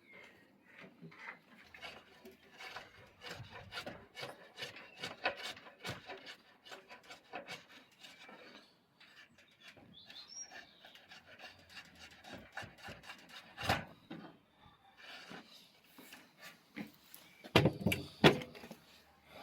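Wooden bow limb being tapered by hand: quick, irregular rasping strokes of a hand tool across the wood, with a few loud knocks near the end.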